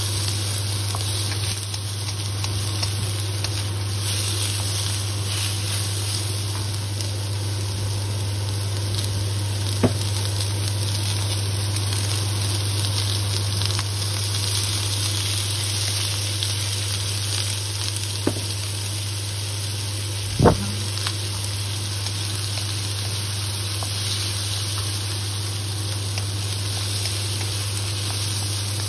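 Diced onion and garlic sizzling as they fry in a wok, stirred with a wooden spatula. A few sharp knocks of the spatula against the pan, the loudest about two-thirds of the way through, over a steady low hum.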